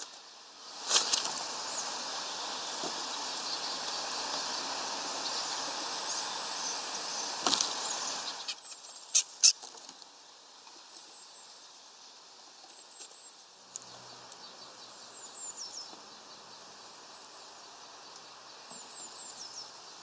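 Outdoor ambience: a steady hiss for the first several seconds with a few sharp clicks, then, in a quieter stretch, a bird giving short, high, descending whistles a few times near the end.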